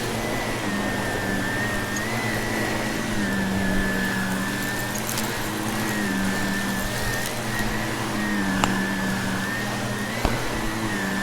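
Vacuum cleaner running steadily, with a motor hum and a high whine whose pitch wavers slightly as it is worked over the floor. A couple of sharp clicks come in the second half, typical of debris crunching up into the vacuum.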